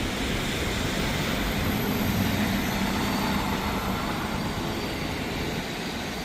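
A motor vehicle passing on a wet street, its engine and tyre hiss swelling about two seconds in and then fading, over the steady hiss of rain.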